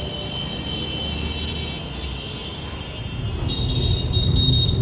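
Road vehicle noise: a low steady rumble that grows louder about three seconds in, with a thin high steady tone above it.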